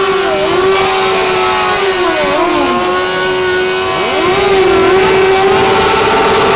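Motorcycle engine held at high revs during a burnout, its pitch dipping and climbing back several times.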